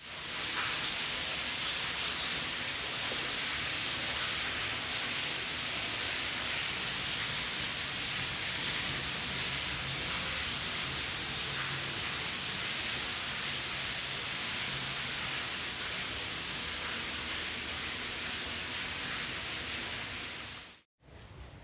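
Steady rushing hiss of running water, even and unbroken, that cuts off abruptly near the end.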